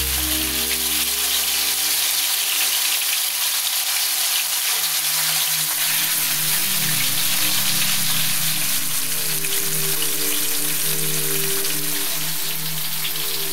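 Food frying in a hot pot, a steady crackling sizzle, under background music.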